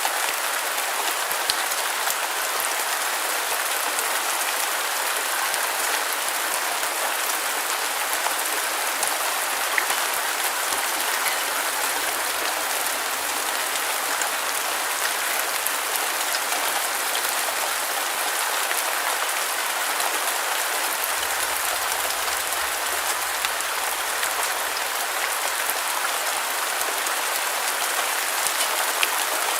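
Steady rain falling: an even hiss sprinkled with many small drop ticks, with almost no low rumble.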